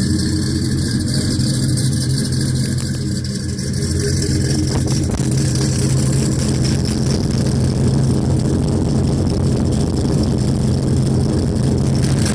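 1955 Chevrolet truck's engine running steadily. About four and a half seconds in, its sound turns fuller and rougher.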